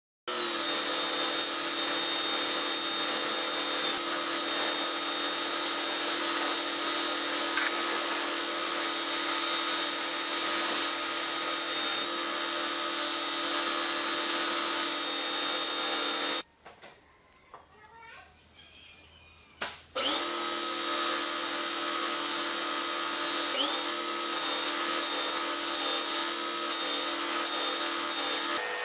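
A power tool running steadily with a high whine. It cuts off about sixteen seconds in and starts again some three seconds later.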